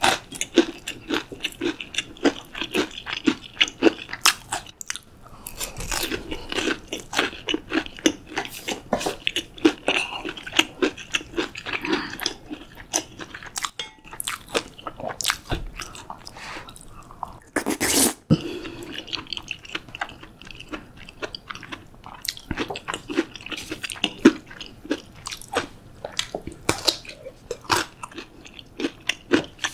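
Close-miked crunching and chewing of crispy breaded pork cutlet with curry, many short crisp crunches in a row. There is one louder crack about two-thirds of the way through.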